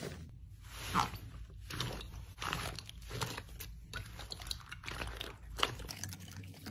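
Crunchy slime being squeezed and pressed, giving a run of irregular crackling crunches, with a loud crunch about a second in and a sharp one near the end.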